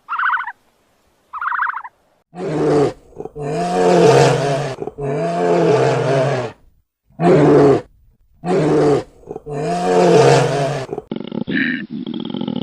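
Big cat roaring: about six loud, long roars, each one to two seconds, in a series after two short, high calls at the start. Near the end a different recording of shorter animal calls begins.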